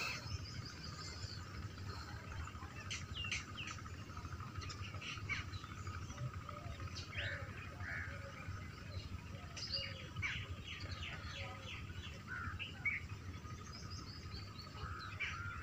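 Small birds chirping and calling, many short high chirps scattered throughout, over a faint steady high tone and a low steady rumble.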